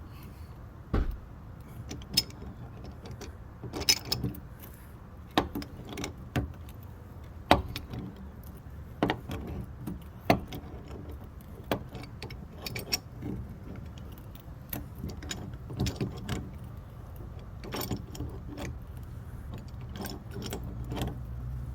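Irregular metal clinks and knocks of hand tools and plumbing fittings being handled and worked, a sharp click every second or so, over a low steady rumble.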